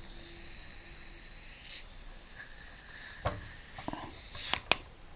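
Home-brewed stout being poured from a bottle into a glass: a steady fizzing hiss, then a few clinks and knocks near the end. The beer is lightly carbonated with little foam, which the brewer puts down to too short a fermentation and too little time in the fridge.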